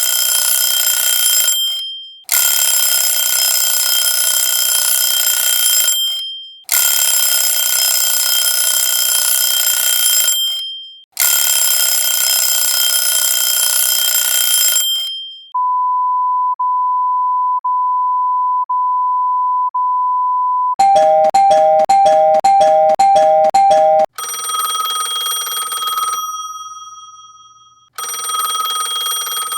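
A run of alarm sounds: a harsh ringing alarm in four bursts of about four seconds each, then a steady single-pitch beep broken about once a second, then a fast beeping that alternates between two pitches, and last a ringtone-like ringing in two bursts that fade away.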